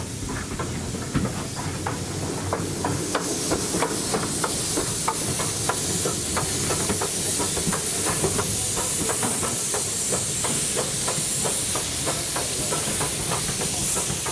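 Steam locomotive hissing steam, growing louder over the first few seconds, with a steady run of sharp metallic clicks at a few per second.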